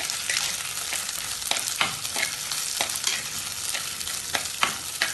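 Turkey berries, shallots and garlic sizzling in hot sesame oil in an earthenware pot, with a steel spoon scraping and knocking against the clay in irregular strokes as they are stirred and sautéed.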